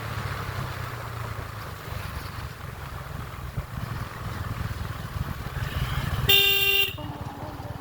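Motorcycle engine running steadily while riding, and a vehicle horn honks once, about six seconds in, for about half a second.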